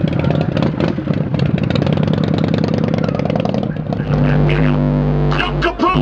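A loud vehicle engine running with rapid pulsing, then music with deep, steady bass notes starts about four seconds in.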